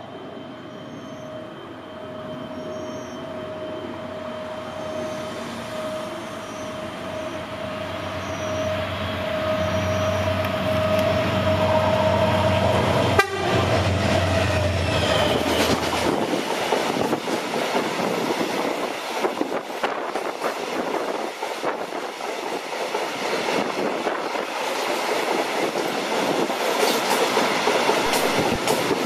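A train approaching and passing at high speed: a steady high tone grows louder for about thirteen seconds, then the locomotive goes by with a sudden rush of air and the cars rumble past with rhythmic wheel clatter on the rail joints.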